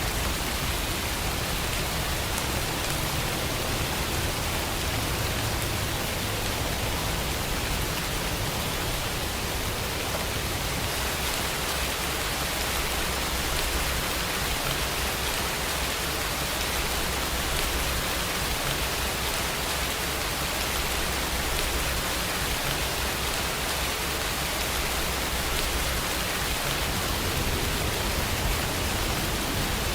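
Steady rain falling, an even hiss with a low rumble beneath it that swells and fades.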